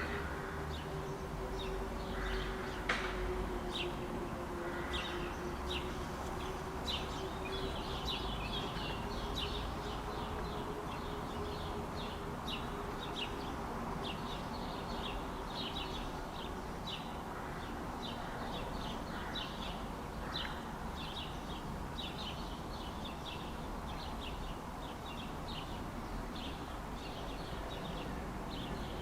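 Birds chirping and singing, a continual stream of short, quick high notes from several birds, over a faint steady low hum and background rumble.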